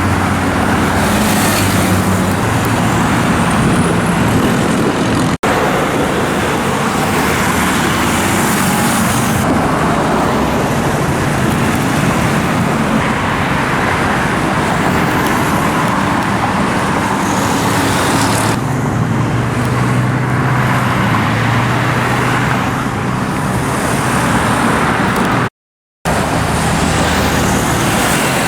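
Road traffic dominated by motorcycles, their small engines running and passing one after another with steady tyre and engine noise. The sound cuts out briefly about five seconds in and again for half a second near the end.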